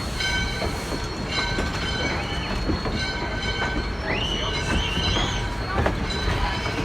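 Railroad passenger cars rolling past with a steady low rumble and high-pitched squealing from the wheels on the rails. The squeal holds several steady tones, and a wavering squeal rises about four seconds in and lasts a second or so.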